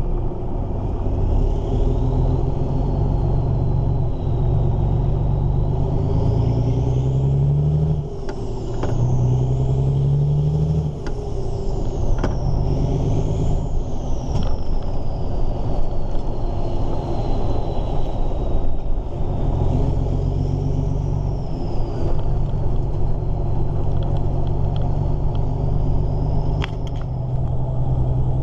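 Volvo F16 truck's turbo-diesel engine heard from inside the cab, pulling through the gears: the engine note climbs twice, dropping sharply at each gear change, then settles into a steady run. A thin high whistle rises and falls with the revs.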